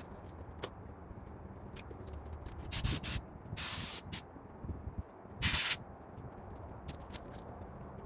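Pressurised spray hissing in four short bursts: two quick ones close together about three seconds in, a longer one just after, and another near the middle of the clip.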